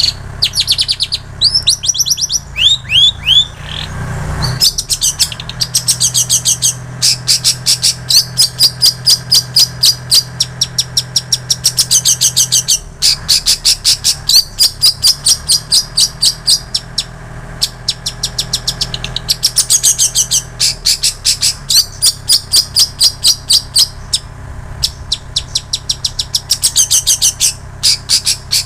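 Long-tailed shrike singing a mimicked repertoire that includes plain prinia and canary song. It gives a few downward-sweeping whistles near the start, then long runs of fast, sharp, high repeated notes at several a second, broken by short pauses.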